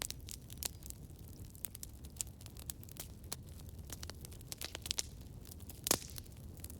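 Campfire crackling: irregular sharp pops and snaps from burning wood over a low steady rumble, with one louder pop about six seconds in.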